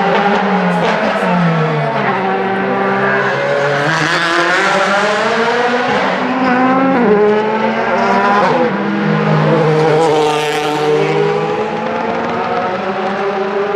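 Several DTM race cars' 4-litre V8 engines running on the circuit, their notes overlapping and rising and falling in pitch as they rev up and down through the gears. One car passes loudest about ten seconds in.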